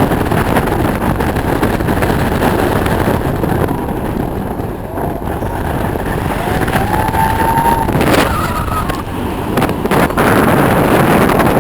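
Sky Flyer roller coaster train running on its track, a steady loud rumble with wind buffeting the microphone in gusts toward the end.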